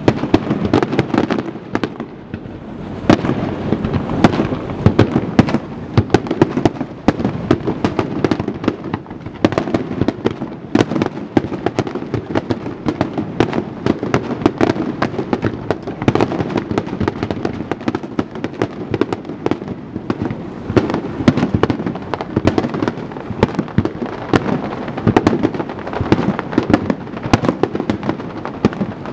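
Aerial firework shells bursting in rapid succession over a harbour, a dense, unbroken run of bangs, several a second.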